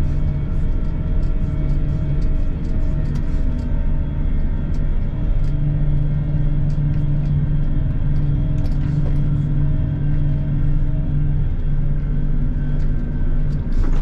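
Combine harvester running steadily at road speed, its engine humming at an even pitch with road rumble underneath, heard from inside the cab.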